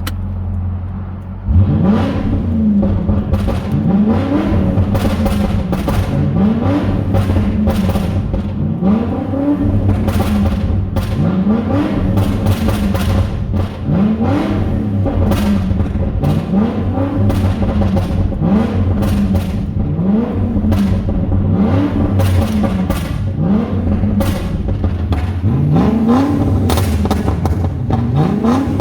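Volvo XC90's 4.4-litre V8 idling, then blipped on the throttle over and over, about once every one to two seconds. The exhaust crackles and pops as the revs fall back.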